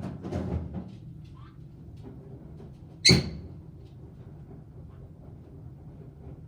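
Caique parrot giving one short, loud, sharp squawk about three seconds in, after a few faint chirps; scuffling and clicking sounds in the first second.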